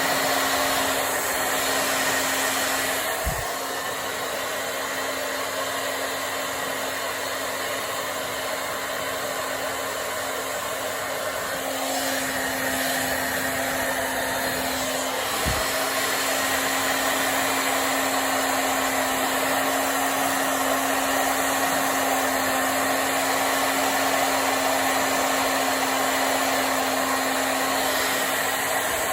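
Hair dryer blowing steadily, a continuous rush of air over a steady motor hum, getting a little quieter for several seconds and then louder again as it is moved about the hair. Two brief low knocks, a few seconds in and about halfway through.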